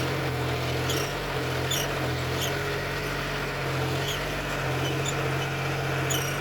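John Deere tractor engine running at a steady hum, with short, high chirps every second or so above it.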